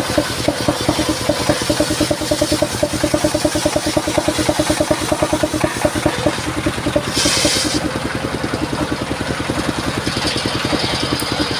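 The engine driving a mobile circular sawmill runs steadily with an even, rapid beat. A brief hiss comes about seven seconds in.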